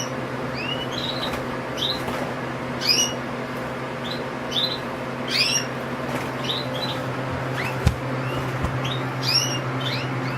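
American cardinals giving short, sharp chip calls, one every second or so, over a steady low hum. A single click sounds about eight seconds in.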